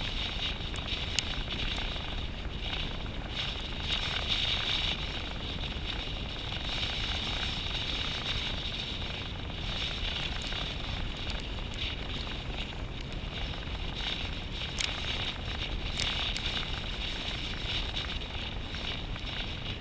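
Continuous rushing noise of a ride over rough ground, with scattered clicks and rattles and wind on the microphone.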